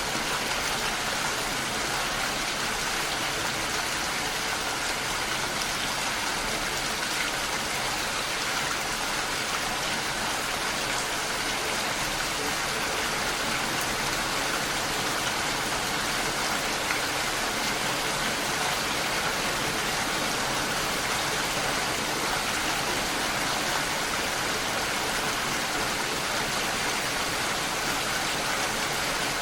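Steady rainfall, a dense, even hiss of drops falling on a surface.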